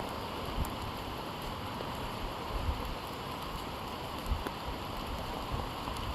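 Steady rain falling, a continuous hiss of drops, with a few soft low thumps scattered through it.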